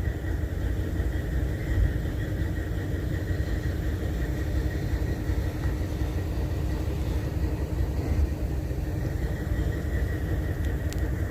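Diesel-electric freight locomotive idling: a steady low rumble with a constant hum.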